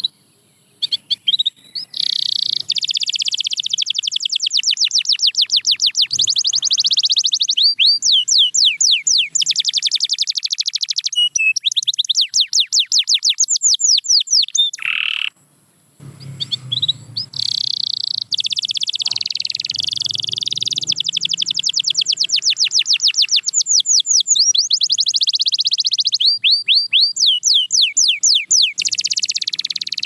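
Domestic canary singing: long rolling trills of fast repeated notes, changing speed from phrase to phrase, with a brief pause about halfway through.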